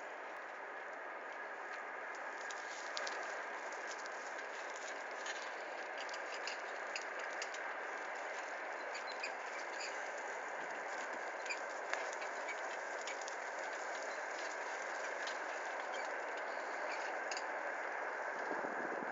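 Bicycle riding along a dirt forest track: steady rolling tyre noise with many small rattles and clicks from the bike.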